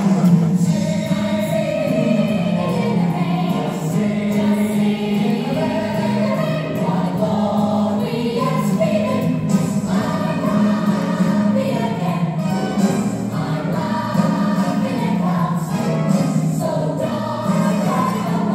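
Music with a group of voices singing together over a sustained accompaniment.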